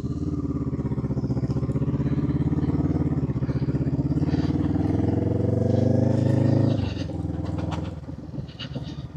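Motorcycle engine pulling up a hill, its note slowly rising for about seven seconds. Then the throttle closes and the sound drops away suddenly.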